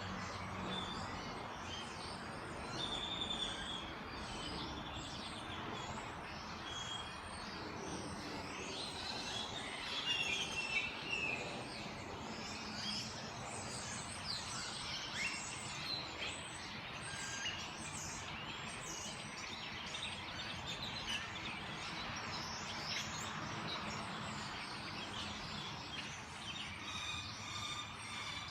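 Many birds chirping and calling at once in a busy evening chorus, over a steady background noise, with a louder burst of calls about ten seconds in.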